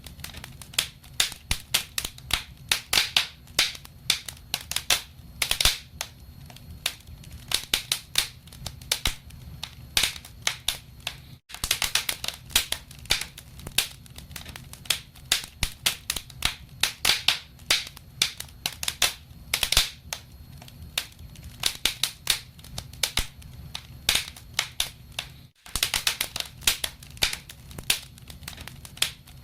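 Wood fire crackling in a fireplace: dense sharp pops and snaps, several a second, over a low steady rumble of the flames. The sound cuts out for an instant twice.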